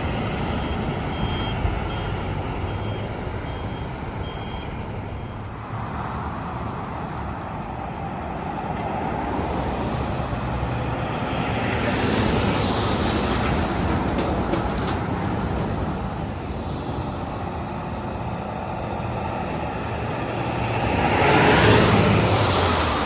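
Highway traffic with trucks passing by, their engine and tyre noise swelling and fading, the loudest pass near the end. A string of short, evenly spaced high beeps sounds in the first few seconds.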